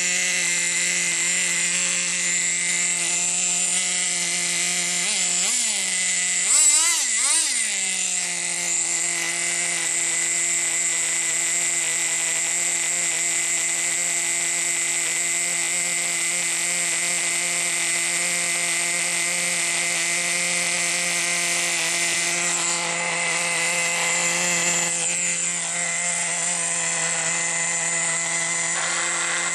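Team Associated GT2 nitro RC truck's small glow-fuel engine idling steadily at a high buzz, blipped up in revs a few times quickly about five to eight seconds in.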